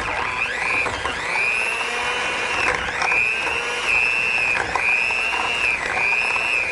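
Handheld electric mixer running on low speed, mixing ice cream with cream. Its steady motor whine dips briefly in pitch several times.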